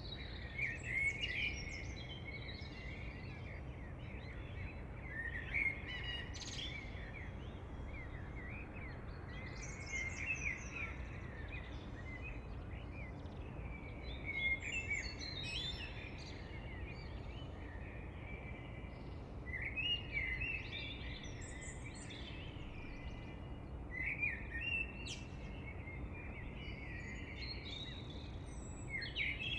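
Songbirds singing in short bursts of chirps and quick trills every few seconds, over a steady low background rumble.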